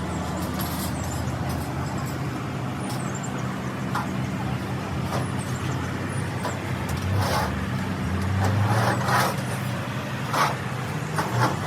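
A diesel engine running steadily at a low hum, with several short knocks and clatters of metal work over it, the loudest in the second half.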